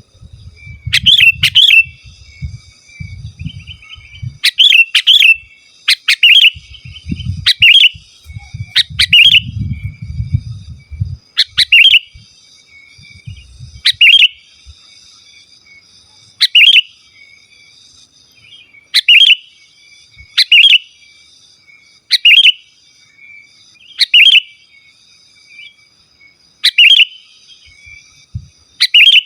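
Sooty-headed bulbul (kutilang) calling over and over: loud, short chirping phrases about every one to three seconds, several of them in quick pairs.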